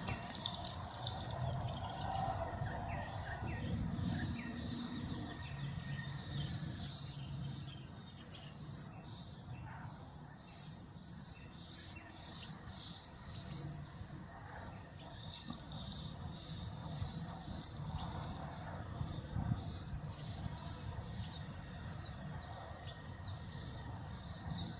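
A steady, high-pitched insect trill that pulses in a regular beat, with scattered bird chirps over it.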